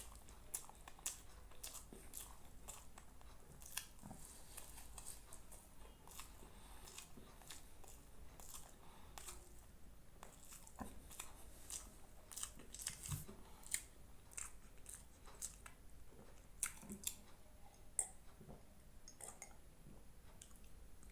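Close-up eating sounds: mouth chewing with irregular small crunches and wet clicks.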